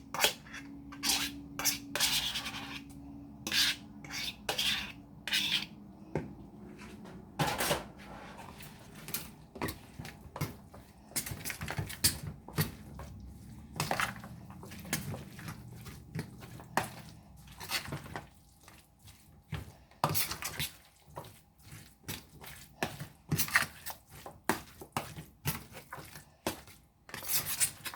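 A utensil clinking and scraping against a bowl as chicken salad is mixed, in many irregular short clicks and scrapes.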